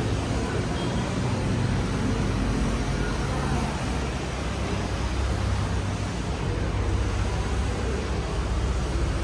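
Steady background din of a shopping mall: a constant low rumble and hum under an even wash of indistinct noise.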